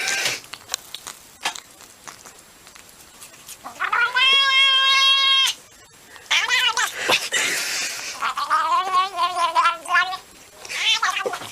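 Cat meowing in a few separate drawn-out calls: a long, level one about four seconds in, then a shorter one that bends in pitch, and a longer one with a wobbling pitch near the end.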